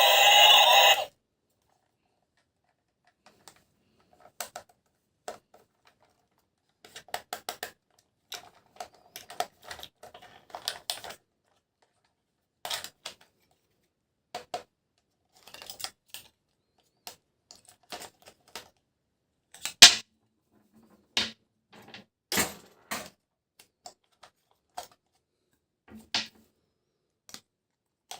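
Music that stops about a second in, then scattered clicks, taps and light rustles of plastic toy trains and their packaging being handled and unboxed, the sharpest clicks near the middle and later.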